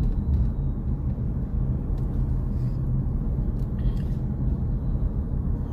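Car being driven, heard from inside: a steady low rumble of engine and tyres on the road.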